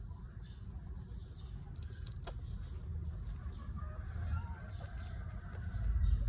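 Newborn puppies squeaking faintly in short high chirps, with a thin wavering whimper about two-thirds of the way in. A low rumble runs underneath and grows louder near the end.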